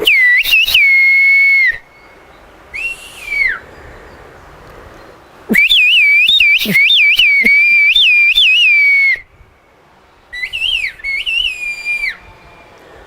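Loud human whistling in the Turkish whistled language, kuş dili ('bird language'): several separate phrases of high whistles. One is a long held tone, one falls at its end, and one long phrase leaps rapidly up and down in pitch like whistled syllables.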